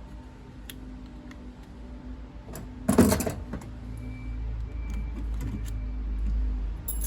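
Metal boiler parts and pipework being handled, with small clicks and one loud, short clank about three seconds in.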